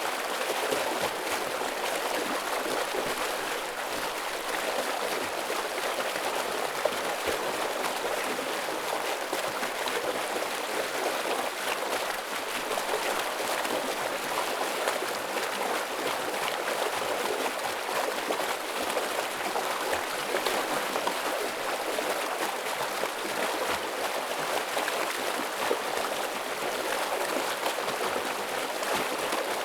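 Forest stream flowing heavily over rocks: a steady rushing and splashing of water.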